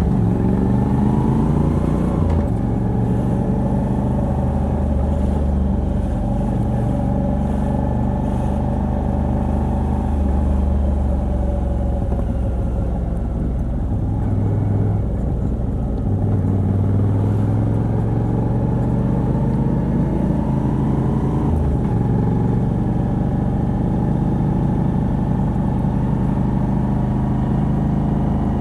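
Moto Guzzi V85TT's 853 cc air-cooled transverse V-twin, with the stock exhaust and a Mistral decat pipe, running under way. It accelerates with rising pitch and changes up a gear about two seconds in, cruises steadily, then climbs again and changes up once more about three-quarters of the way through.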